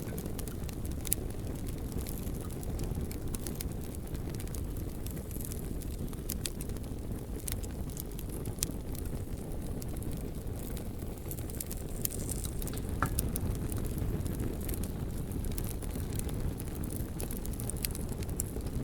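Beach campfire crackling, with scattered sharp pops and snaps of burning wood over a steady low rumble.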